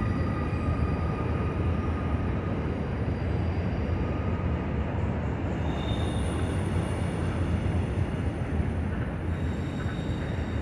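Freight train rolling past at a distance: a steady low rumble of wheels on rail, with thin high-pitched wheel squeals fading in and out.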